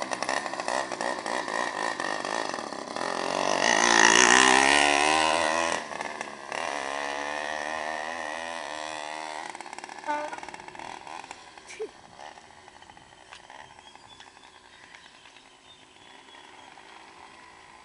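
Small two-stroke motorized-bicycle engine (80/66 cc kit) running loud with the exhaust end cap removed. It revs up about three seconds in, peaks, drops back to a steady run, and grows quieter in the second half.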